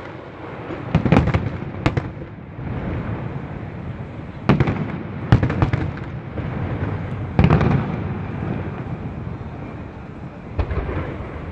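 Aerial firework shells bursting overhead: a run of sharp booms, some in quick clusters, with rolling rumble between them.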